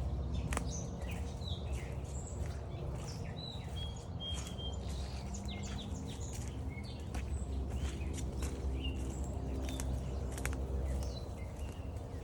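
Several wild birds chirping and singing at once, many short calls and whistled notes overlapping, over a steady low rumble.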